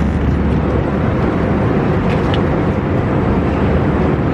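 Airliner cabin noise: a steady low rumble and rush of jet engines and airflow, heard from inside the cabin.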